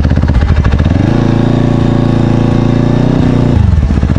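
Motorcycle engine running with a rapid, regular pulse; it is revved up about a second in, held, and drops back to idle near the end.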